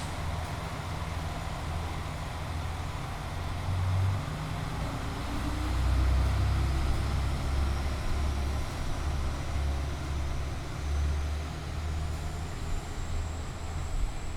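N2000 series diesel-hydraulic express railcars pulling away, engines running under power with a heavy low rumble that swells about halfway through. A thin high whine rises and holds in the second half as the train gathers speed.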